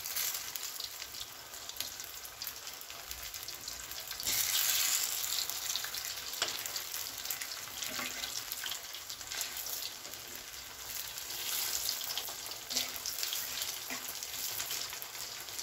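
Cabbage-and-carrot fritters (bakwan) crackling and sizzling in hot oil in a steel wok, louder for a few seconds about four seconds in. Now and then the metal spatula clicks against the wok as the fritters are turned.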